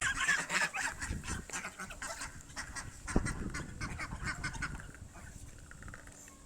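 Ducks quacking over and over, the calls dying down after about five seconds.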